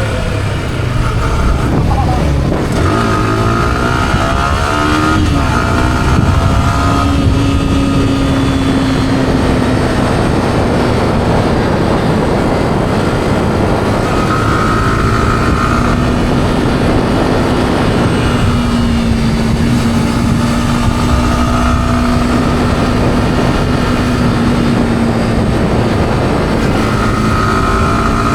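Yamaha R15's single-cylinder four-stroke engine through its stock exhaust while being ridden, with wind rushing over the microphone. The engine note rises and falls several times in the first seconds, then holds a fairly steady cruising pitch.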